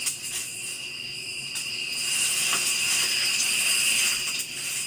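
Steady chorus of night insects chirping, a continuous high-pitched trilling that grows louder about two seconds in.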